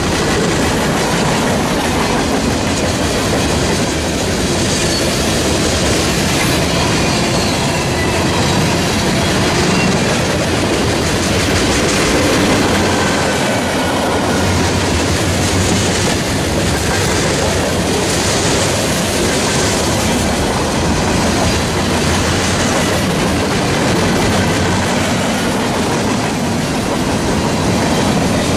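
A train's railroad cars rolling past, their wheels clattering steadily on the rails, with faint high wheel squeal now and then.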